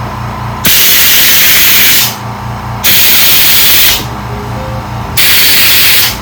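Compressed air from an air-compressor blowgun hissing in three blasts, each about a second to a second and a half long, blowing out the passages of a plastic Briggs & Stratton mower carburetor. A low, steady, pulsing hum runs between the blasts.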